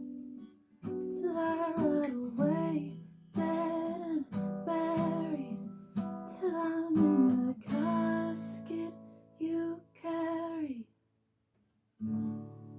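Strummed acoustic guitar with a woman's voice singing long wordless notes. The playing stops for about a second near the end, then a chord rings again.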